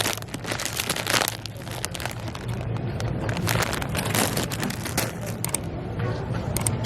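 Irregular rustling and crinkling handling noise over a steady low hum.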